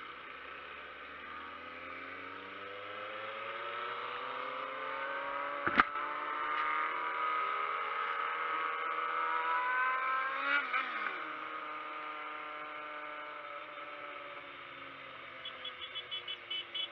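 Motorcycle engine pulling steadily, its pitch rising slowly for about ten seconds and then falling away as it eases off. A sharp click comes about six seconds in.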